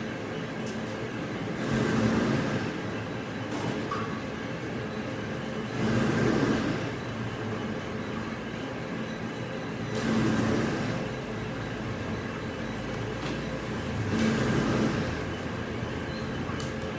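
Plywood-production machinery running with a steady hum. Roughly every four seconds a louder swell of mechanical noise lasts about a second, as the machine works in a repeating cycle.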